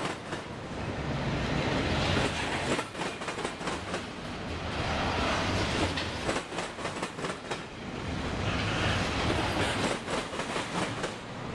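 Intermodal freight train of double-stack container cars and trailer cars rolling past at speed: a steady rumble of wheels and cars, with clusters of sharp clacks as the wheelsets cross rail joints.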